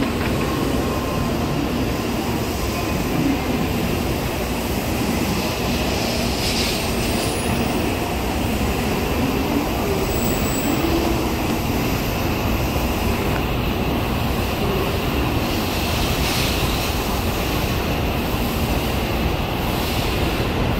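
Shinkansen bullet train running along the platform as it pulls out of the station, a steady loud rumble and rush of wheels and air with a faint wavering motor whine and brief hisses twice.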